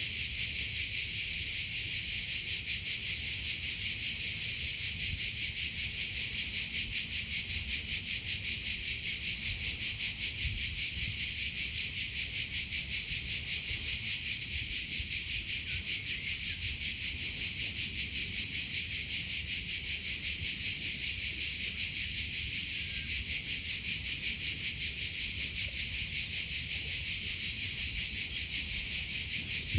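Crickets chirping: a steady high-pitched trill that pulses in an even, rapid rhythm.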